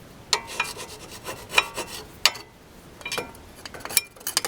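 Hand-cleaning of the front brake caliper and pad bracket: an irregular run of short, sharp scrubbing scrapes on metal, some with a brief metallic ring.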